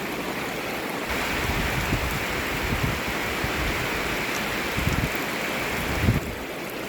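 Rain falling steadily. From about a second in until near the end it grows louder, with gusts of wind rumbling on the microphone.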